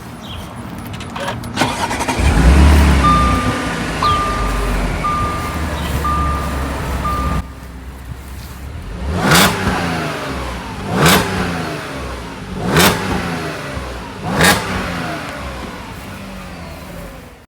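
Audi S5's supercharged 3.0-litre V6 starting about two seconds in and settling to idle, while a beep repeats about once a second five times. Then the throttle is blipped four times, each rev rising and falling quickly.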